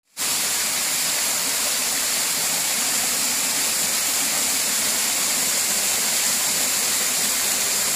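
Waterfall inside a cave: a steady, unbroken rush of falling water that starts almost at once.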